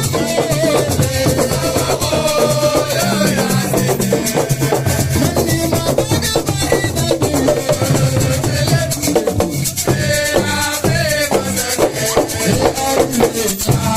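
Assiko percussion music: drums and shakers playing a dense, driving rhythm, with a voice or melody line bending over it.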